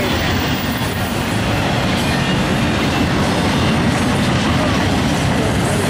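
Double-stack intermodal container train rolling past, its well cars' steel wheels making a steady, loud rumble on the rails.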